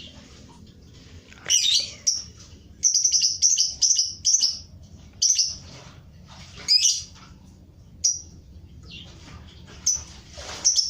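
Pet birds chirping in short high calls, with a quick run of about six repeated notes about three seconds in.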